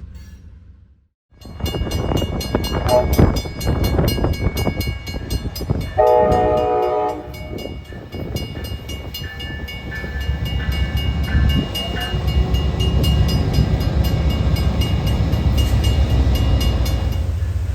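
A train rumbling past with a steady run of clicking from the wheels on the rails, and one loud horn blast of about a second roughly six seconds in.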